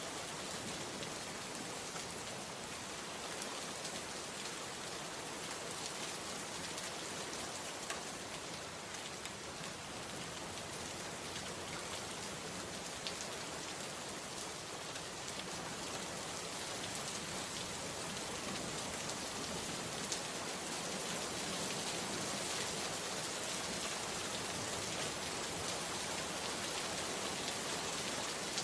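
Steady rain falling, an even dense hiss with a few individual drops ticking out now and then.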